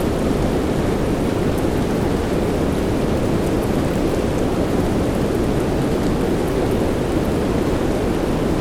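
Steady rain, a dense even hiss weighted toward the low end, with a few faint drop ticks.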